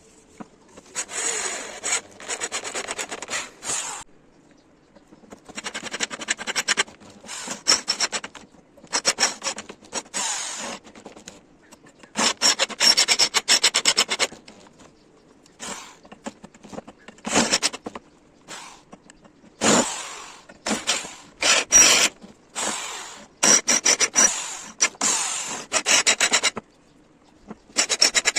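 Hand rubbing of an abrasive tool on the metal parts of a home-made vice: rasping strokes in bursts of one to two seconds, with short pauses between.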